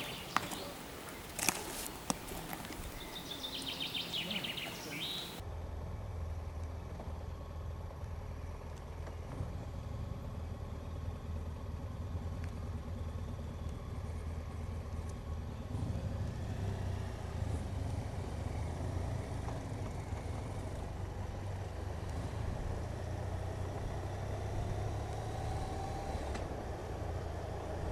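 Motorcycle running at road speed, a steady low drone. It comes in abruptly about five seconds in, after a few sharp clicks and a short high bird trill outdoors.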